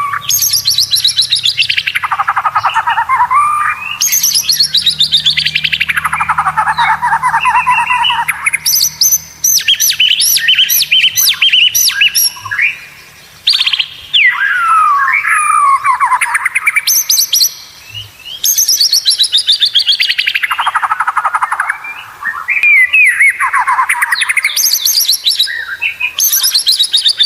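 White-rumped shama (murai batu) singing loud, fast trilled phrases, many of them sweeping quickly downward in pitch, repeated with short breaks, as used for training caged shamas to sing.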